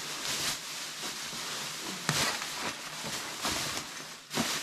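Rustling and clunking as items are taken out of bags and handled, with a sharp knock about two seconds in.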